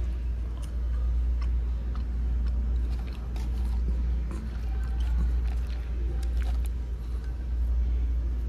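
A person chewing McDonald's french fries, with small irregular clicks and ticks, over a steady low rumble.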